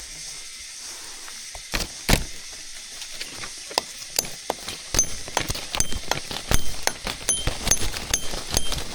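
A run of sharp clicks and knocks, a few at first and then coming thick and irregular from about halfway through, some with a brief high ring like metal clinking.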